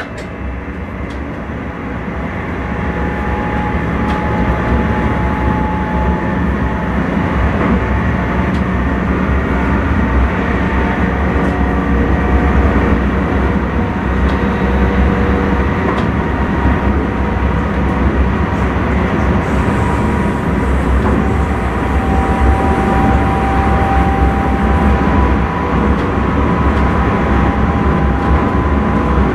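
Intercity train running, heard from the driver's cab: a steady low rumble of wheels on the track that grows louder over the first few seconds, then holds, with thin whining tones above it.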